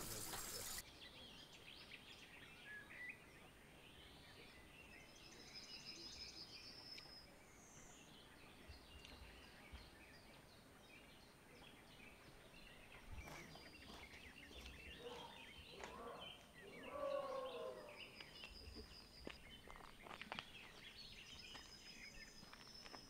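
Quiet open-air ambience with birds chirping faintly now and then and an occasional faint knock.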